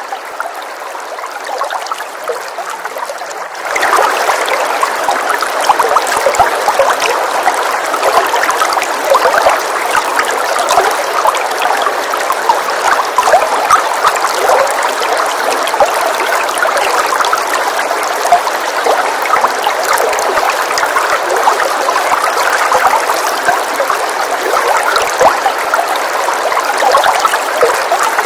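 Recorded rain, a dense steady hiss of many small drops, which comes up louder about four seconds in and then holds steady.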